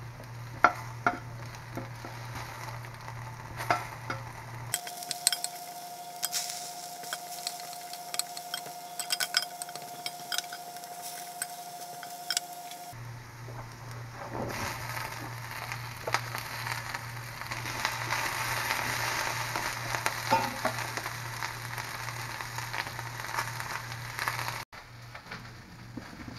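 Potatoes sizzling as they fry in a cast iron skillet, with a spatula clicking and scraping against the pan as they are stirred. The sizzle grows louder past the middle.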